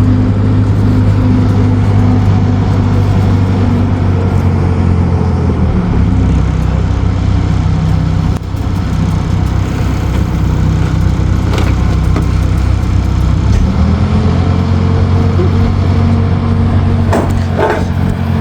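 A vehicle engine running steadily. Its pitch drops about six seconds in and rises again near fourteen seconds, as the throttle or gear changes, with a couple of short clatters near the end.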